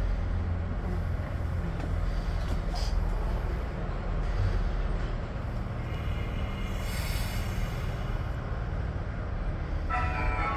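Tobu 10030-series electric train running, heard from the cab: a steady low rumble of wheels and running gear, with a brief hiss about seven seconds in. A ringing tone starts near the end.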